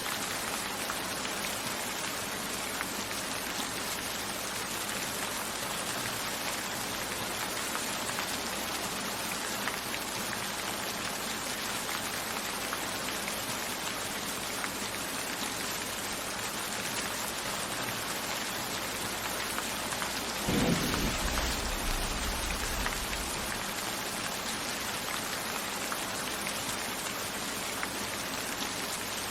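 Steady rain falling. About two-thirds of the way in, a single low rumble of thunder rises and fades over about three seconds.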